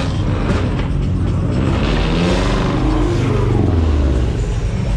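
A car engine revving as it drives past, its pitch rising and then falling, with a rush of noise as it passes about two seconds in.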